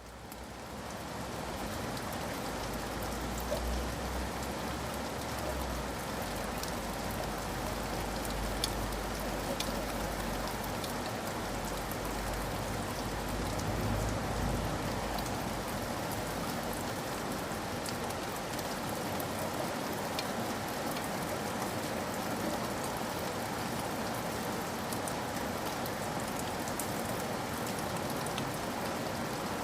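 Steady rain with scattered drop taps, fading in from silence at the start, with a low rumble under it for about the first half.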